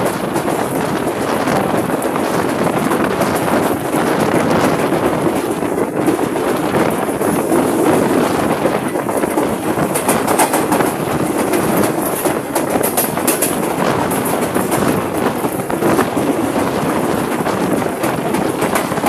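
Sir Syed Express passenger train running along the track: a steady, loud rumble of wheels on rails mixed with a rush of wind on the microphone, with a spell of quick clicks about ten seconds in.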